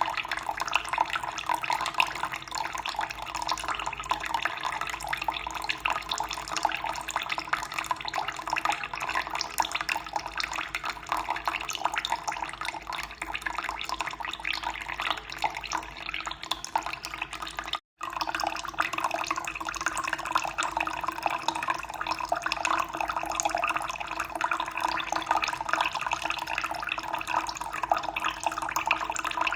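Running water pouring and splashing steadily. It cuts out for an instant about two-thirds of the way through, then carries on slightly brighter.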